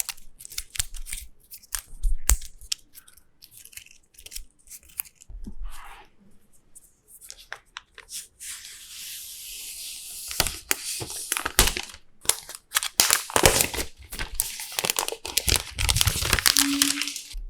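iPad Pro box packaging being opened: scattered clicks and taps, then a steady tearing sound lasting a few seconds about halfway through, followed by dense crinkling and crackling of the wrapping.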